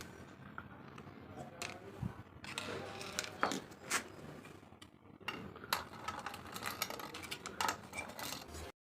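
Irregular clicks, taps and light scrapes of small hard parts being handled, with no music, cutting off abruptly near the end.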